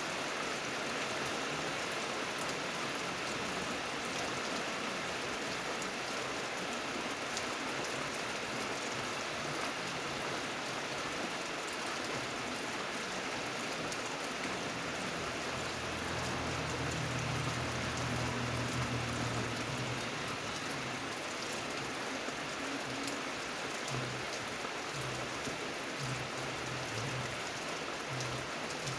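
Steady rain falling and pattering on surfaces, an even hiss with fine drop crackle. A low rumble comes in about halfway through and recurs in short spells near the end.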